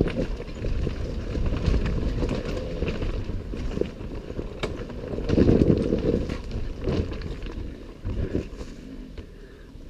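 Enduro motorcycle riding a rough forest trail, heard on the rider's camera: a low rumble mixed with wind on the microphone, and many small knocks and clicks from the bike working over the ground, swelling louder about halfway through.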